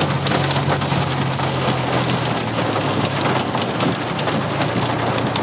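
Heavy rain drumming steadily on a moving car's roof and body, with many sharp drop hits, heard inside the cabin. A low steady engine hum sits underneath and fades about halfway through.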